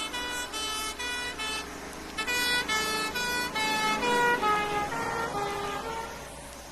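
Two-tone horn of a British emergency vehicle (fire engine or ambulance) going by, its two notes alternating. It grows louder, then drops in pitch about four seconds in as it passes and fades away.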